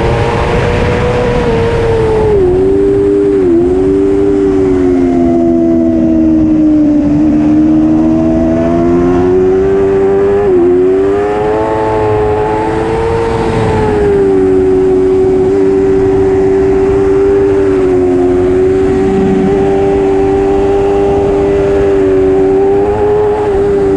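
Superbike racing motorcycle's engine running hard, its pitch dropping sharply a few times at gear changes or throttle lifts, then holding steady for most of the second half.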